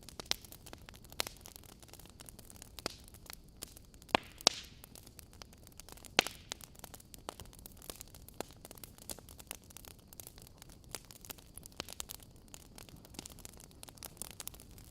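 Wood fire crackling in a fireplace: irregular sharp pops and snaps over a steady low hiss, with the loudest pops about four and six seconds in.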